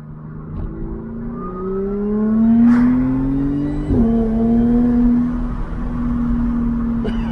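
Audi B8 S4's supercharged 3.0-litre V6 breathing through a newly fitted CTS Turbo cold-air intake, revved up smoothly over about three seconds. The revs drop sharply about four seconds in, and the engine then runs steady at a raised speed.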